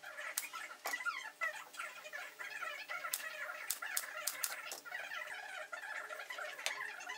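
Birds chirping busily, with a few sharp clicks or taps scattered through, most of them in the middle.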